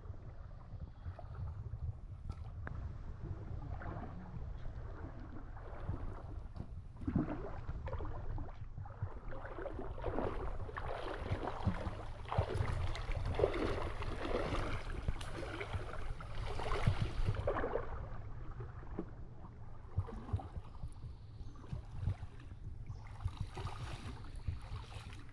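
River water sloshing and splashing, busiest in the middle stretch, over a steady low rumble.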